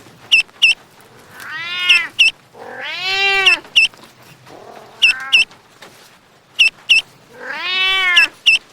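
A cat meowing: four drawn-out meows that rise and fall in pitch, the third one faint. Pairs of short, sharp high chirps repeat about every second and a half and are louder than the meows.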